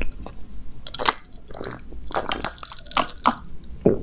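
Close-miked eating sounds: a mouthful of food being chewed, with irregular wet clicks and smacks.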